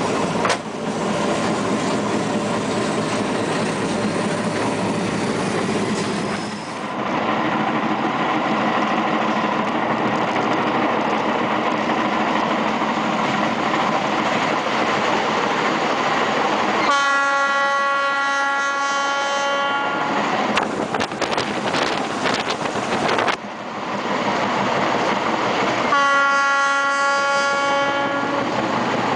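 Metre-gauge diesel-hauled passenger train running, with steady wheel-and-rail noise. The locomotive's horn sounds twice: a blast of about three seconds past the middle, and a shorter one near the end.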